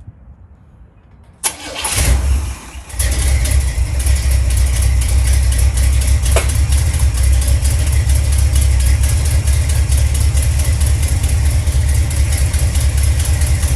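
Freshly tuned-up box Chevy Caprice's small-block V8 cranked by the starter and firing after about a second and a half of cranking, then settling into a steady idle. The idle carries an exhaust leak, as the owner says.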